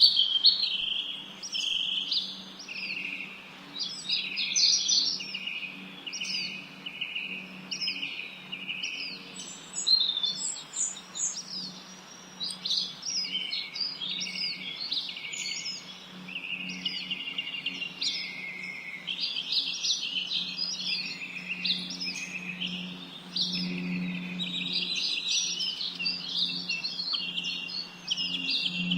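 Several songbirds chirping and singing at once, a dense, unbroken stream of quick high notes and short trills. A faint steady low hum runs underneath.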